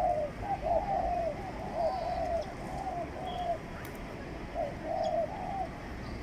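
Pigeons cooing: a quick run of short, repeated coos that pauses about three and a half seconds in, then resumes for a few more notes.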